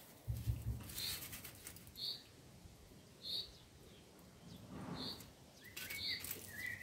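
A bird repeating a short, high chirp about once a second. Under it, faint scratching of a wooden modelling tool on the soft concrete figure and a brief dull bump near the start.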